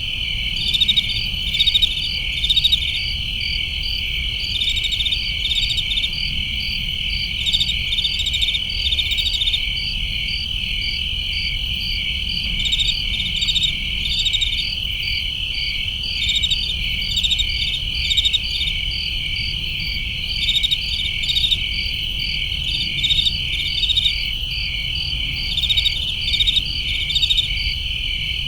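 Night chorus of crickets: a continuous high trill, with groups of short, pulsed chirps repeating every second or two over it and a faint low rumble beneath.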